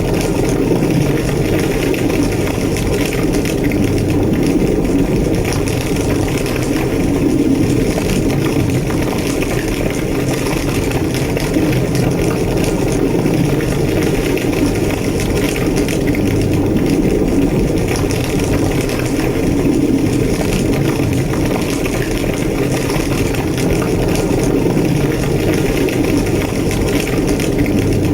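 A large burning building: fire roaring steadily and low, with scattered crackles.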